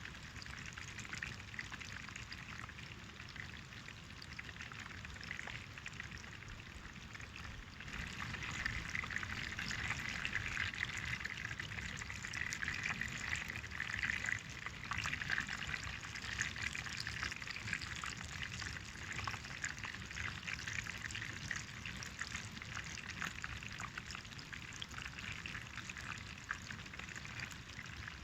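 Hot oil sizzling and crackling as food fries in a pan, a dense hiss of small pops that grows louder about eight seconds in.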